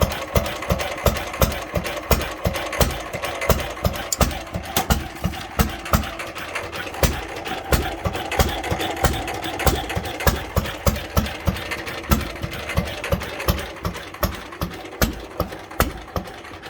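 Antique Bernard W0 single-cylinder stationary engine running at idle on its first start-up, a steady, even beat of firing strokes. It gets somewhat quieter near the end.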